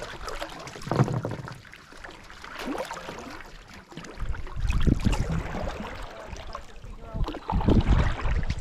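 Paddle strokes splashing in the water beside a small solo canoe, irregular and uneven, with low wind rumble on the microphone at times.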